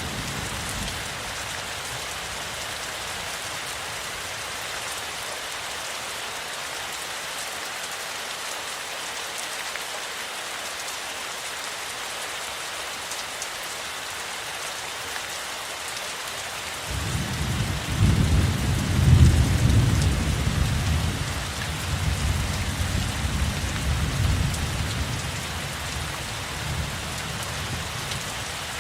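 Steady rain falling in an even hiss, with a low roll of thunder that starts suddenly a bit past halfway, peaks a couple of seconds later and rumbles away over several seconds.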